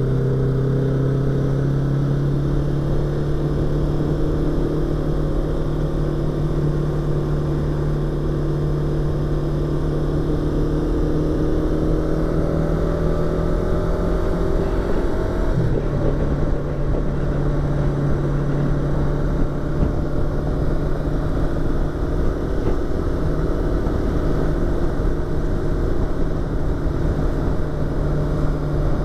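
Yamaha YZF-R25's 250 cc parallel-twin engine and exhaust running under way, heard from inside the rider's helmet over the low rush of wind. The note rises gently for about fifteen seconds, breaks briefly about halfway, then holds steady.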